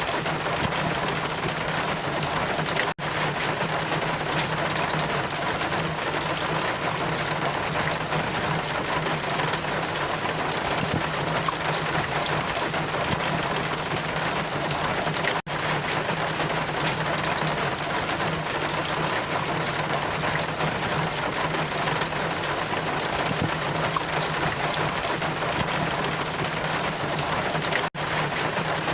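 Steady rain and wind: a dense, even hiss with a steady low hum underneath. It drops out for a split second three times, about every twelve seconds.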